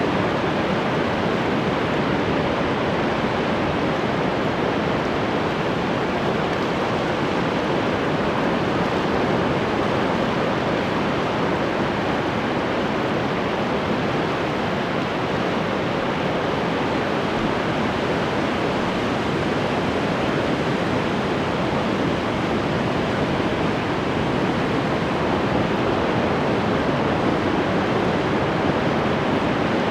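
Ocean surf: a steady, even wash of breaking waves with no single wave standing out.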